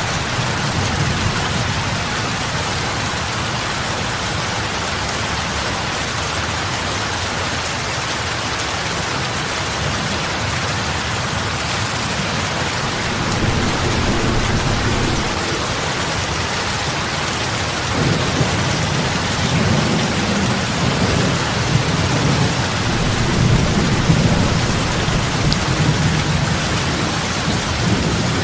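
Heavy rain falling on the surface of a lake, a dense steady hiss of drops splashing on water. Low rumbling swells come in about halfway through and grow stronger in the last third.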